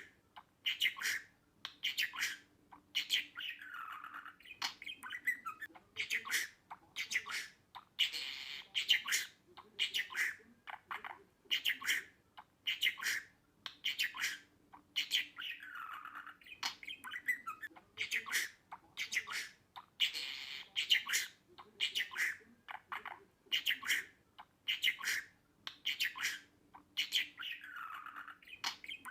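Budgerigar chattering in rapid short chirps and sharp squawks, some gliding down in pitch; the same sequence repeats about every twelve seconds.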